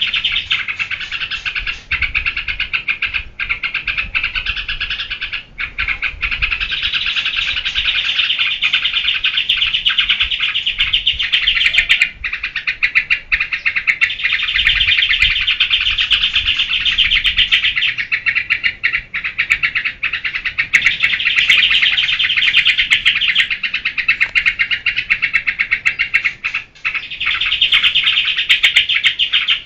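Yellow-vented bulbul (trucukan) singing in excited 'geberan' style: a loud, fast, continuous chattering song in long phrases, broken by short pauses every few seconds.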